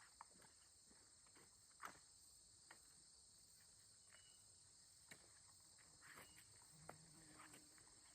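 Near silence outdoors: faint steady chirring of crickets and a few faint small clicks.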